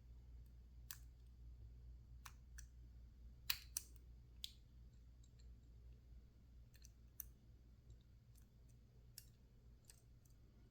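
Small metal clicks and ticks of a lockpick and tension tool working the pins inside a PacLock 410 Pro padlock, coming irregularly at a low level, with a louder pair about three and a half seconds in.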